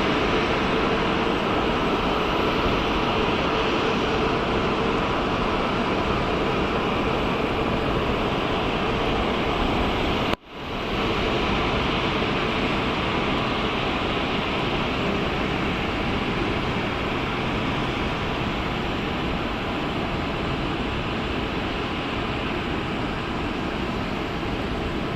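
Boeing 747-8F's GEnx jet engines running, a steady loud rushing noise with faint steady tones in it. About ten seconds in it drops out suddenly and comes back within half a second.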